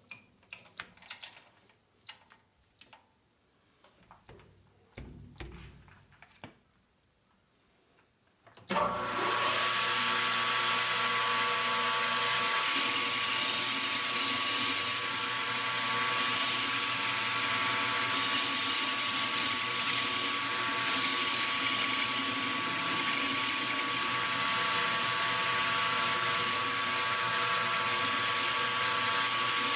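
Scattered light clicks and knocks of handling, then about nine seconds in a metal lathe starts and runs steadily with a high whine over a hiss.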